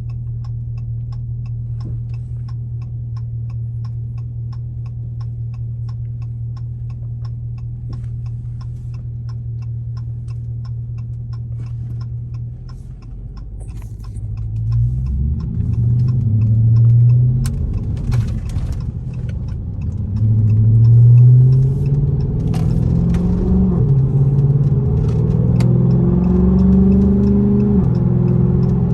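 A car with a very loud exhaust idling steadily, with a faint regular ticking about twice a second, then pulling away about halfway through: the engine revs up and down through the gears, louder and rumbling.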